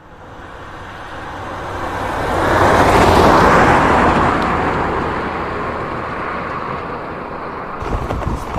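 A car passing close by at speed, its tyre and road noise swelling to a peak about three seconds in and then fading away.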